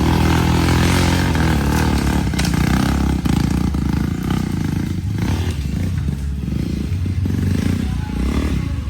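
Motorcycle engine running loud and steady, its low note wavering.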